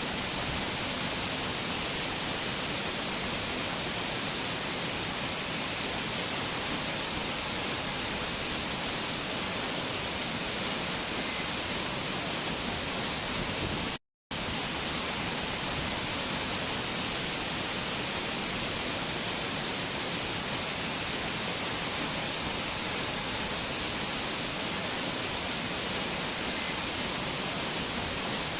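Steady rushing of a waterfall, an even hiss that cuts out completely for a split second about halfway through.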